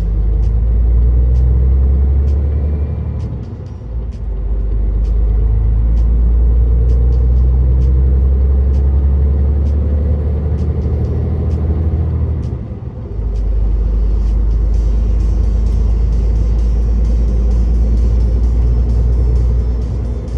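Truck's diesel engine running with a deep, steady drone and tyre and road noise, heard from inside the cab. The drone dips briefly twice, about four and thirteen seconds in.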